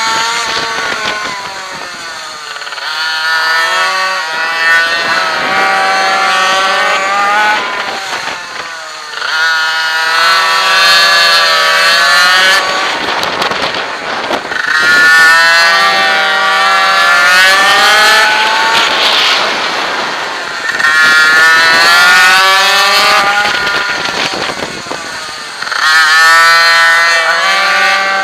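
Minimoto racing pocket bike's small two-stroke engine heard onboard at race pace: it revs up hard for several seconds, then the pitch drops sharply as the rider backs off, about five times over, in the rhythm of straights and corners.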